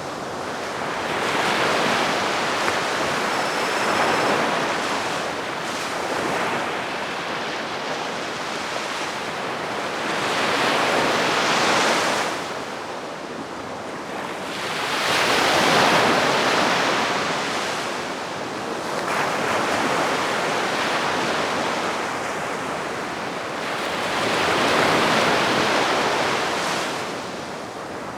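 Calm sea waves washing onto the beach, each wash swelling and fading over a few seconds.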